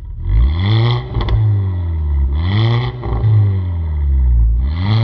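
VW Golf 6 R's turbocharged 2.0-litre four-cylinder revved in three quick throttle blips, breathing through a stainless-steel turbo-back exhaust with downpipe and sport catalyst. The revs drop back to a steady low note between blips, with a couple of sharp pops as they fall after the first.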